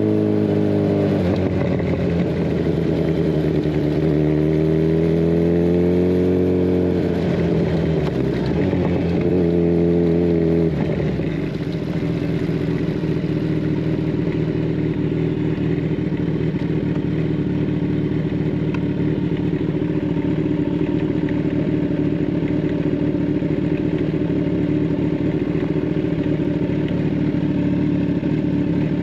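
Kawasaki Ninja 1000SX inline-four running through a de-catted Scorpion Red Power exhaust. Its pitch drops about a second in, climbs twice as the bike accelerates, then drops about eleven seconds in and holds a steady note.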